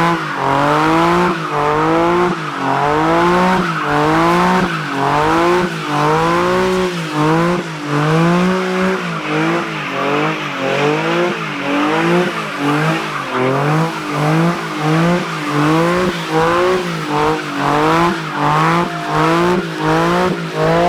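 Car engine revved hard over and over, its pitch climbing and dropping about once a second, over a steady high hiss of tire noise.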